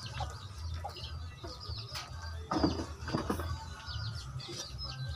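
Small birds chirping over and over in short, quick, falling notes, over a low steady rumble, with a couple of louder knocks about two to three seconds in.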